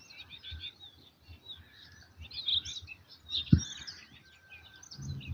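Small songbirds chirping and twittering in quick, high notes. A single short thump sounds about three and a half seconds in.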